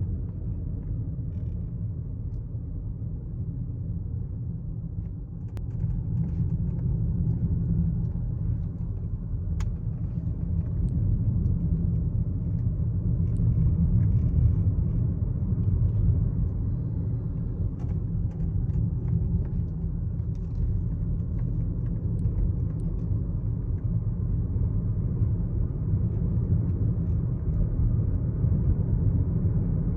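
Cabin noise of a 12th-generation Toyota Corolla Altis on the move: a steady low rumble that gets louder about six seconds in, with a few faint clicks that the owner presents as an abnormal steering-wheel noise.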